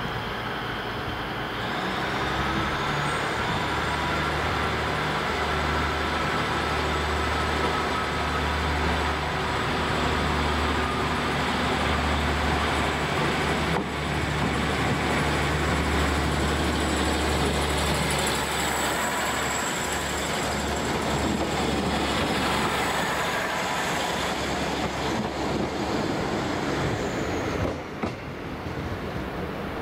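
Diesel multiple unit coming along the platform line and passing close by: a steady low engine drone with wheel-on-rail rumble. A thin high whine sets in about two seconds in, and the sound drops away sharply near the end.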